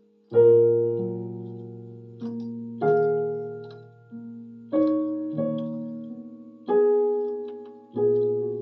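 Electronic keyboard on a piano voice playing a slow Korean drama soundtrack piece: a chord with a bass note struck about every one to two seconds, each left to ring and fade before the next.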